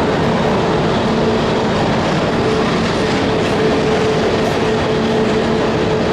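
Boeing 777-200ER jet engines at take-off power: a loud, steady rushing noise with a low steady hum under it.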